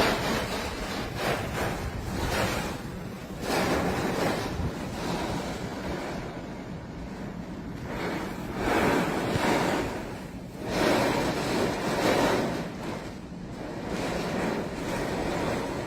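Storm wind gusting in surges every few seconds, a rushing sound that buffets the microphone.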